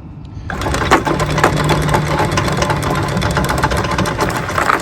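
Electric anchor windlass hauling in anchor chain: the chain clatters and rattles over the winch with a steady motor hum beneath, starting about half a second in.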